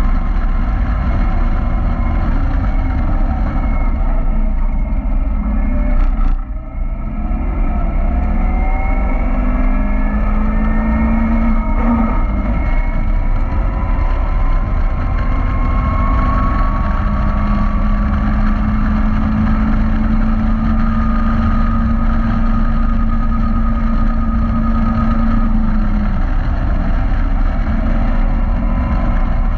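Caterham Roadsport engine under hard load on a track lap, heard from the open cockpit. The revs drop sharply about six seconds in, climb steadily with a brief break about twelve seconds in, then rise slowly for a long stretch before falling again near the end.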